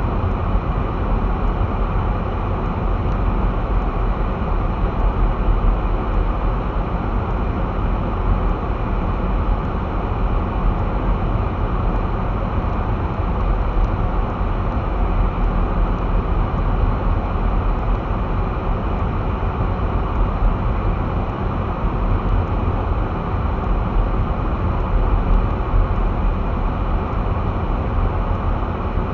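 Steady road noise of a car driving at about 25 mph on snowy streets: an even low rumble of engine and tyres.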